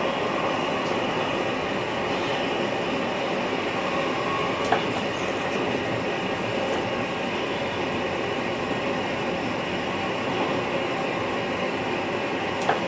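NS VIRM double-deck electric multiple unit running on the track, heard from inside the driver's cab: a steady rumble of wheels on rails, with two sharp clicks, one about a third of the way in and one near the end.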